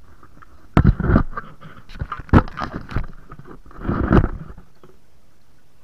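Handling noise close to the microphone: a series of knocks, rubs and scrapes as the camera is set in place, in three clusters, stopping near the end.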